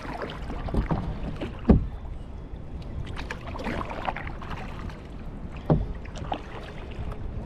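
Kayak paddling: water splashing and dripping off the paddle blades with each stroke. Two sharp knocks about four seconds apart are the loudest sounds, the first about two seconds in.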